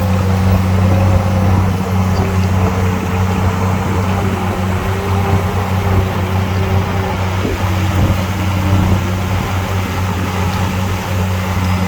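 Heavy diesel engine of an earthmoving machine running steadily with a deep, even hum and a faint wavering tone above it.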